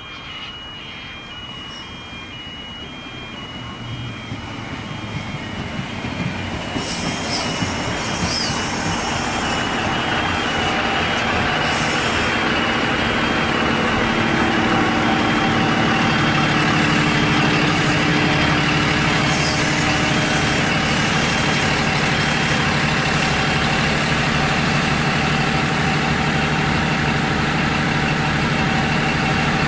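An Endeavour-class diesel railcar approaching and running into the platform, getting louder over the first dozen seconds, with brief high squeals about a third of the way in; its underfloor diesel engine then runs steadily as the cars draw alongside. A repeated electronic beep sounds through the first two thirds.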